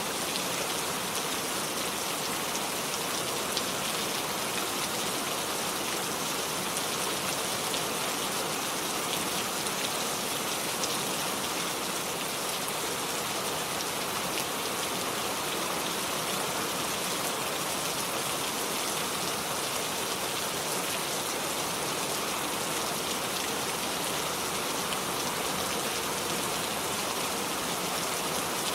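Steady rainfall: an even hiss of rain with the patter of individual drops striking surfaces.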